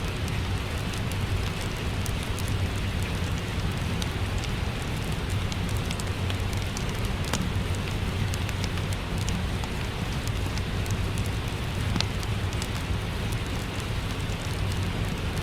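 Steady rain, with a wood fire crackling in small scattered pops over it.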